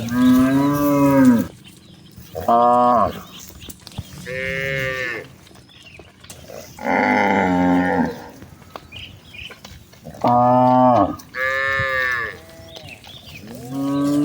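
Cattle mooing: about six separate moos in turn, each lasting up to a second and a half, at differing pitches from several cows in a herd.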